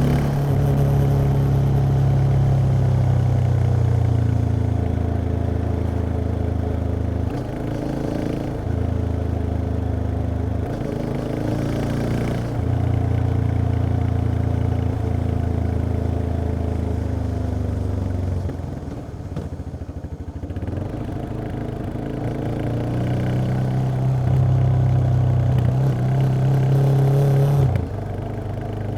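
Yamaha XT 660X single-cylinder engine under way through its stock exhaust. The note changes pitch in steps a few times. It eases off and drops lower in the middle, climbs again, then drops abruptly near the end.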